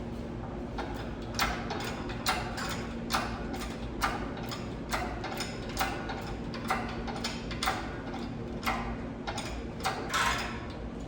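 A hand ratchet being worked in repeated strokes, a short burst of clicking from the pawl a little under once a second, about a dozen times, over a steady low hum.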